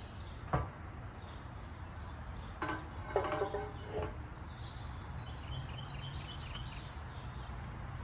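Handling noises while chicken thighs are taken off a smoker: a sharp click about half a second in, then a brief squeaky clatter of a few seconds, over a steady low hum, with faint bird chirps near the middle.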